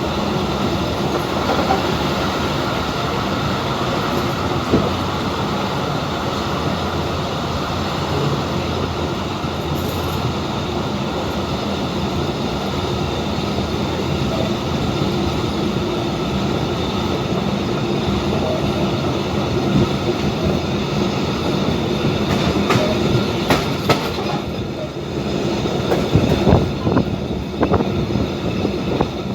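Passenger train running on the rails: a steady rumble and rattle of the moving carriage. A run of sharp clicks and knocks comes in the last few seconds.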